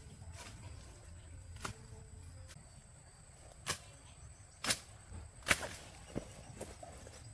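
Hand tool chopping or striking: about six sharp strikes at uneven intervals, the loudest two around five seconds in.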